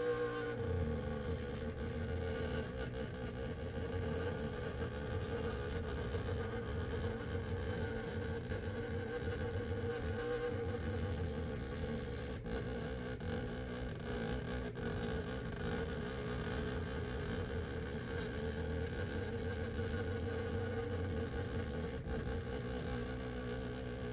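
Steady hum and whir of a small electric motor running, a wavering mid-pitched tone over a low rumble.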